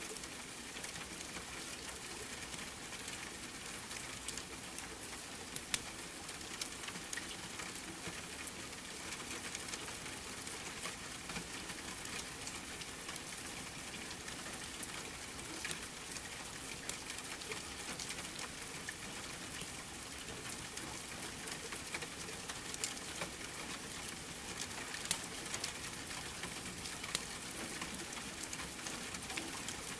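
Steady rain hiss mixed with the scattered sharp pops and crackles of a fireplace.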